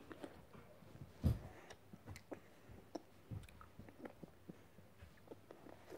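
A child chewing a cherry-flavoured gummy candy: soft, scattered wet mouth clicks and smacks, with one louder knock about a second in.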